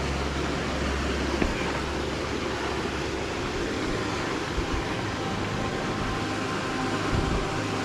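Steady rushing of a rock waterfall's cascades, an even hiss with no breaks.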